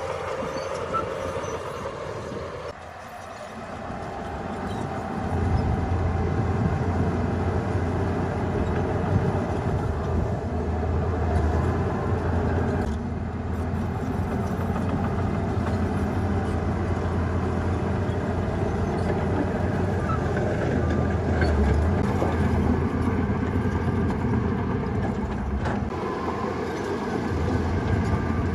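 Heavy diesel earthmoving machinery running: a steady engine drone that drops briefly about three seconds in, then rises to a heavy low rumble from about five seconds on.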